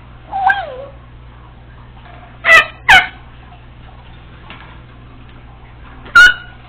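Congo African grey parrot calling: a short falling whistle-like call about half a second in, two sharp loud calls in quick succession about two and a half seconds in, and another loud short call near the end.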